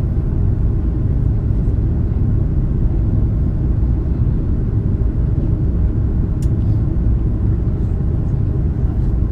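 Steady low rumble inside the cabin of an Airbus A330 airliner taxiing, from its idling jet engines and rolling wheels, with a faint click about six and a half seconds in.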